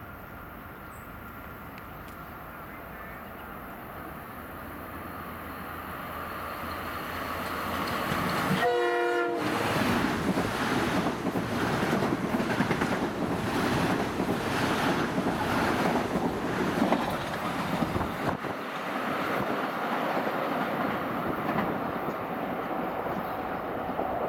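Metro-North M8 electric multiple unit approaching and passing close by, growing steadily louder. About 9 s in, the train gives one short horn blast. Then the cars go by with a steady clickety-clack of wheels over rail joints, roughly one knock a second.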